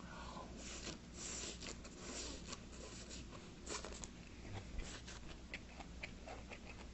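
Close-miked chewing of a mouthful of seasoned bean sprouts and spinach namul: crunchy, wet chewing with many short clicks, busiest in the first couple of seconds.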